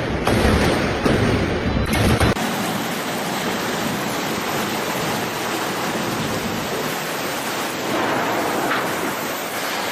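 Hurricane wind and rain noise: a heavy low rumble for about two seconds, then after a sudden cut a steady, even hiss like wind-driven rain.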